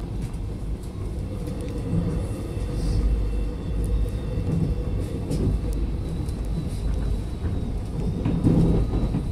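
Metro Trains Melbourne suburban electric train running at speed, heard from inside the carriage: a steady low rumble of wheels on the track, with a few faint clunks.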